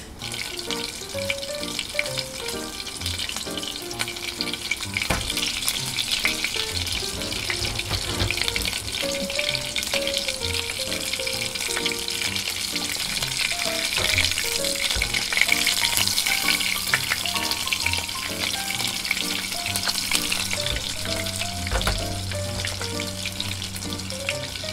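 Meatballs sizzling as they fry in hot oil in a frying pan, with a wooden spatula now and then scraping and turning them.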